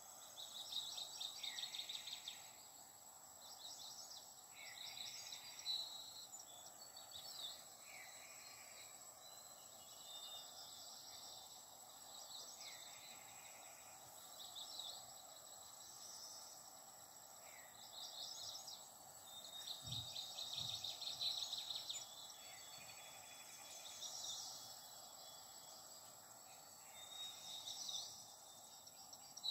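Small birds chirping and trilling faintly, short calls repeating every second or two over a steady background hiss, with a soft low thump about two-thirds of the way through.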